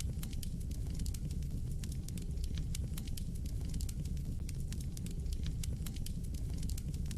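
Wood fire burning in a fireplace: a steady low rumble of the flames with many quick, irregular crackles and pops.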